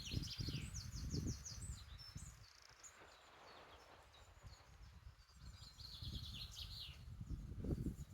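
A small songbird singing fast trilled phrases of rapidly repeated high notes, twice: once at the start and again about five seconds in. Low, dull thumps, the loudest sound, come under the first phrase and again near the end.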